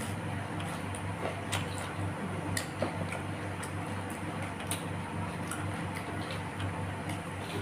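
Close-miked eating sounds: irregular small clicks and smacks of chewing, over a steady low hum.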